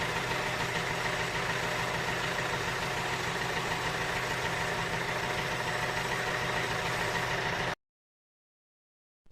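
Small motor of a DIY miniature tractor running with a steady, even hum, then cutting off abruptly about a second and a half before the end.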